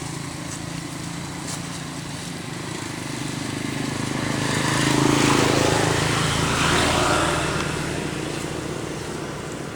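A motor vehicle's engine passing by: a steady low engine hum throughout, with a noisy swell that builds to a peak about five seconds in and fades away a few seconds later.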